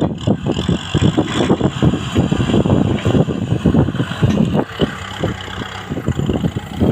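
Kubota M6040 tractor's diesel engine running, with many irregular short knocks over it.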